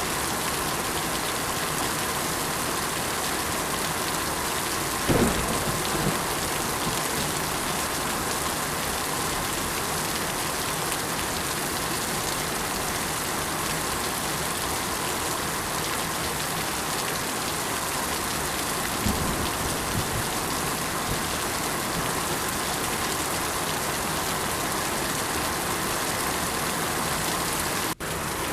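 Steady, dense rainfall. There are two short low thuds, about five seconds in and again near twenty seconds, and the sound cuts out for an instant near the end.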